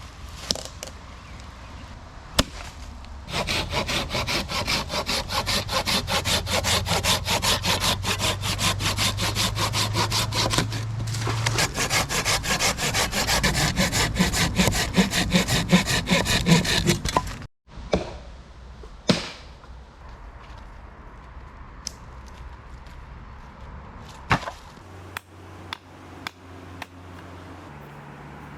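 Saw cutting through wood with rapid back-and-forth strokes, which stop abruptly; a few separate knocks and clicks follow.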